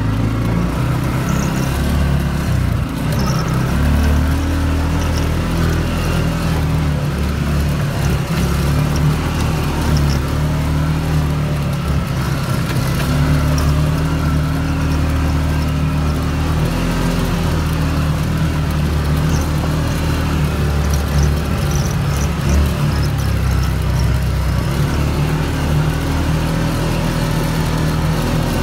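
CFMOTO ATV engine running while being ridden, steady with small rises and falls in pitch as the throttle changes.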